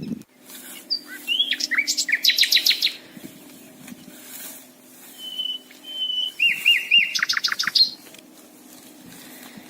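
A songbird singing two phrases, the first about a second in and the second about five seconds in, each made of a few clear whistled notes followed by a fast trill.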